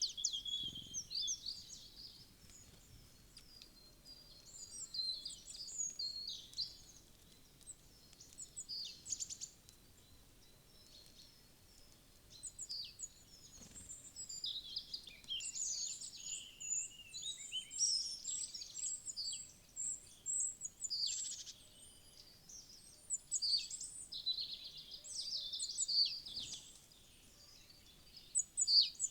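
Wild small birds chirping and calling, many short high-pitched chirps and trills in clusters with brief lulls.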